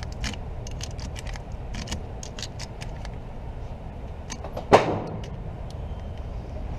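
Light metallic clicking and rattling, as of gun or magazine handling, over a steady low rumble. Then one loud, sharp gunshot rings out about three-quarters of the way through.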